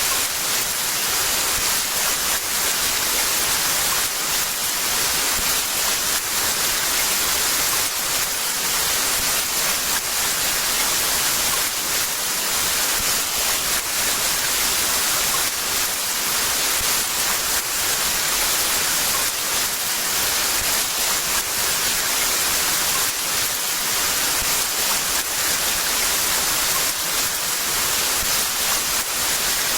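Heavy rain falling steadily, a dense even hiss with a fine patter of drops.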